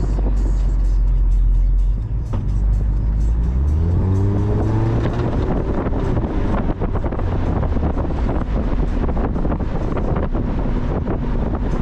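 Mazda Miata's four-cylinder engine easing off about two seconds in, then rising steadily in revs as the car accelerates and settling into a steady cruise, with wind buffeting the microphone throughout.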